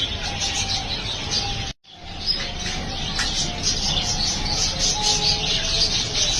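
Budgerigars chattering, with many rapid high chirps overlapping continuously. The sound cuts out completely for a moment just before two seconds in.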